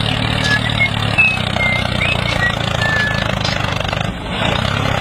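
Tractor engine running steadily, with a brief dip about four seconds in. Several short high chirps sound over it.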